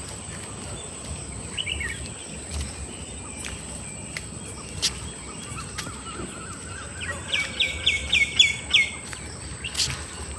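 Wild bird calling: a short call of a few falling notes about a second and a half in, then near the end a quick run of about eight sharp downslurred notes, several a second. A steady high thin whine runs underneath.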